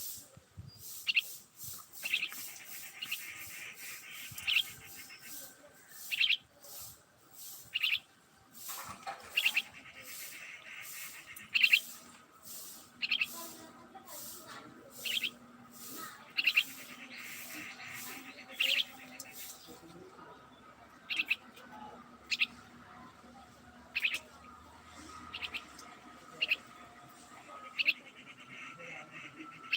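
A bird chirping, with short, sharp calls repeating about once every second or so. A faint steady hum runs underneath from about a third of the way in.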